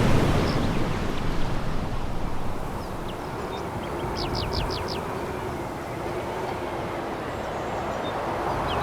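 Sea waves breaking and washing over a pebble beach, loudest at the start, easing after two or three seconds and building again near the end. A quick run of five short high chirps sounds about four seconds in.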